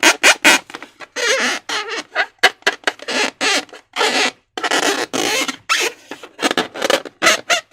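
Slime and rubber balloons being worked by hand: a quick, irregular run of wet squelches and short, wavering squeaks of stretched balloon rubber.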